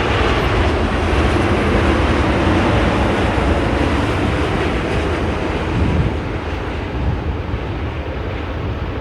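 Heavy jet airliner landing: a loud, steady rumble of jet engines and airframe noise that eases off slightly over the last few seconds.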